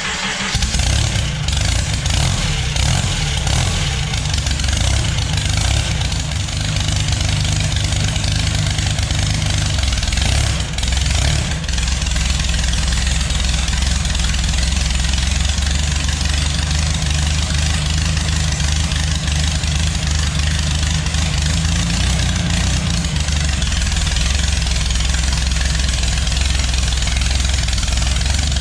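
Mini rail dragster's 3-liter GM (Chevy) four-cylinder engine, freshly fired, running steadily at idle through its custom-built open exhaust; its note shifts briefly about ten seconds in, then settles again.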